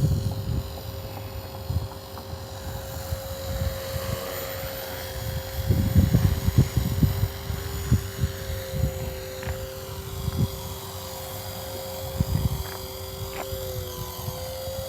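Walkera V450D03 electric RC helicopter in the air, its brushless motor and rotor head giving a steady two-note whine that sags briefly near the end as the pilot works it down for a nose-in landing. Gusts of wind rumble on the microphone, loudest about six seconds in.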